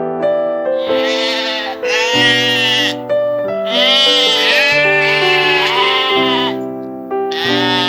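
Sheep bleating repeatedly in long, wavering calls, about four in a row, over background music with steady held notes.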